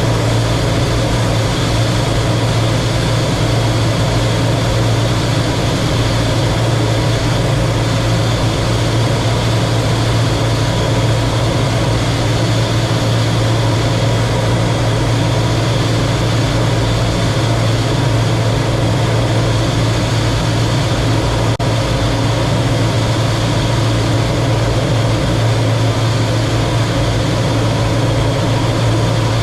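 Steady, loud cockpit noise of a T-33 jet trainer in flight: jet engine and rushing air with a strong low hum, unchanging throughout.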